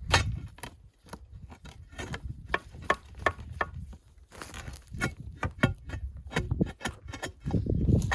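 Irregular sharp clicks and knocks, several a second, like hard objects striking or handled, over a low rumble that grows louder near the end.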